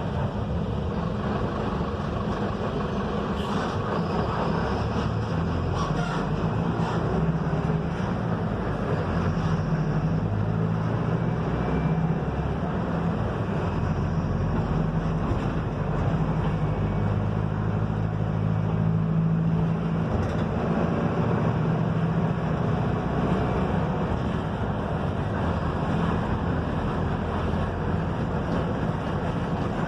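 Mercedes-Benz OF-1721 bus on the move, heard inside the cabin: its front-mounted diesel engine runs steadily over road noise, and the engine note rises and falls in steps. A few brief rattles sound in the first several seconds.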